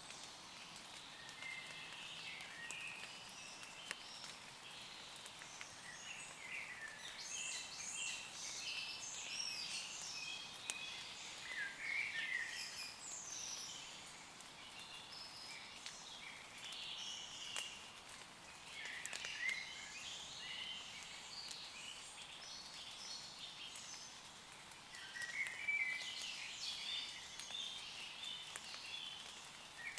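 Woodland songbirds singing, several birds with overlapping short chirps and trills coming in clusters, over a faint steady patter of light rain with scattered drip ticks.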